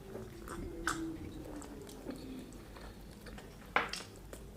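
Close-miked eating sounds: a person chewing yam, with scattered soft wet mouth clicks and smacks, the sharpest about four seconds in.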